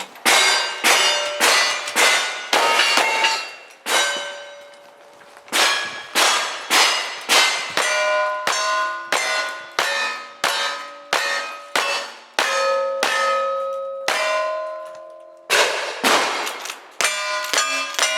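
A fast string of gunshots at steel targets, about two a second, each hit ringing the steel plate with a metallic clang. The string breaks twice for a second or more while the shooter changes guns.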